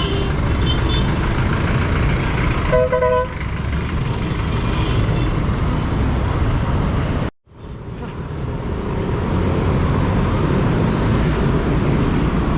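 Road traffic noise heard from a bicycle in city traffic, with a vehicle horn sounding briefly about three seconds in. Near the middle the sound cuts out abruptly for a moment, then fades back in.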